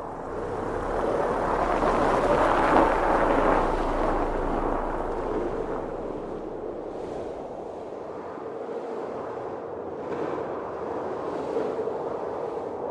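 Blizzard wind blowing in gusts: a strong gust swells and eases in the first few seconds, then a steadier rush with a faint steady whistle.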